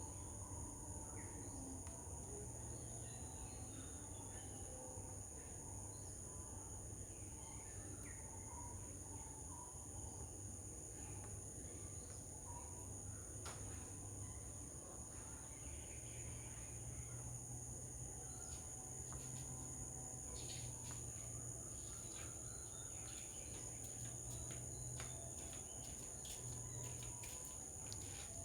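Steady high-pitched drone of insects, two constant pitches holding without a break, over a low background hum. Scattered short clicks come in the second half, with a few faint bird chirps.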